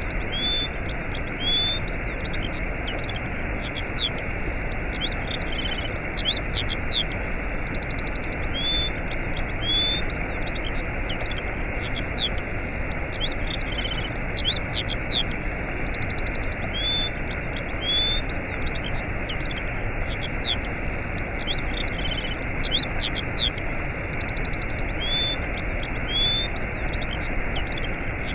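Steady rushing of a waterfall, with many small birds chirping, trilling and whistling over it the whole time.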